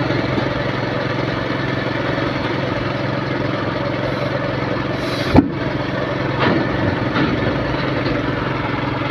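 A motor engine idling steadily, with one short, sharp bang about five seconds in.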